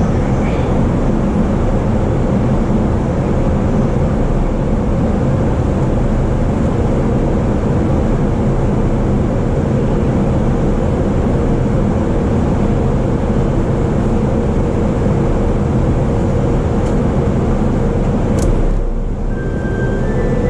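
Running noise of a JR East E233-series electric commuter train under way, heard from inside the car: a steady, loud rumble of wheels on rail. A faint steady hum joins about a third of the way in, and there is one sharp click near the end.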